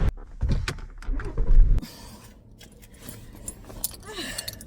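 Keys jangling amid light clicks and handling rattles inside a parked car. A low rumble stops about two seconds in.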